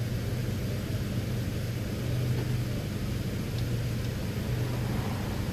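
Steady low droning hum with an even hiss underneath, unchanging throughout, with no distinct tool strikes.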